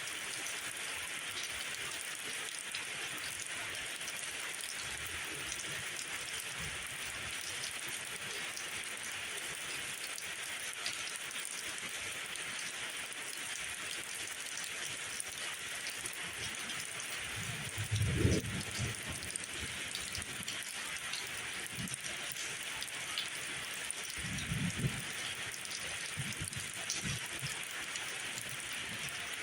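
Steady rainfall, an even hiss, with two brief low rumbles, one a little past halfway and the other near the end.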